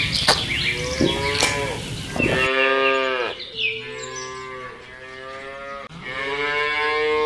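Cows mooing: several long moos one after another, each lasting a second or two, some sliding in pitch.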